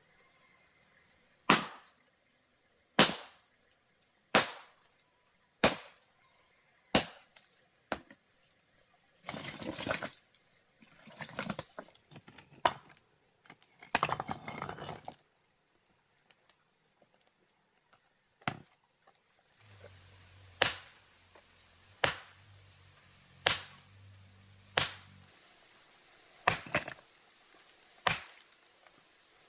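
Evenly spaced sharp blows of a hand tool striking a hard material, about one every second and a half, in two runs. Between the runs there are a few seconds of rough scraping and rustling.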